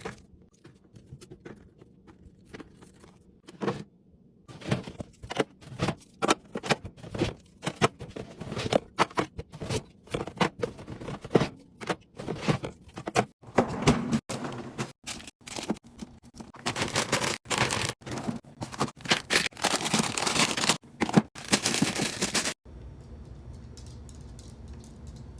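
Rapid, irregular clatter of taps, clicks and scrapes from food containers and packaging being handled while a fridge is restocked, growing busier and louder midway. It cuts off abruptly near the end, leaving a steady low hum.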